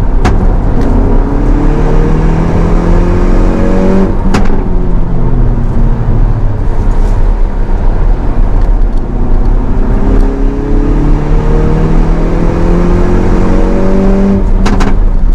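A car engine accelerating hard twice, its pitch climbing steadily for a few seconds each time before cutting off sharply, over heavy steady road and wind noise.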